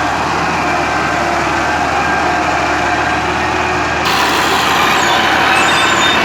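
New Holland tractor's diesel engine running steadily. About four seconds in, the sound changes abruptly, turning brighter and slightly louder.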